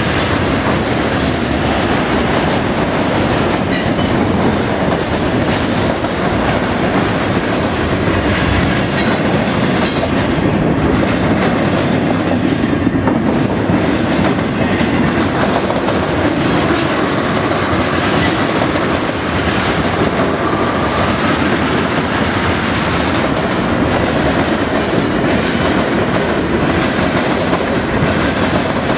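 Freight train cars rolling past, the steel wheels clattering steadily on the rails.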